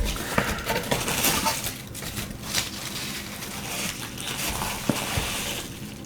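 Packaging being handled and unwrapped: crinkling and rustling, with a few small knocks and clinks.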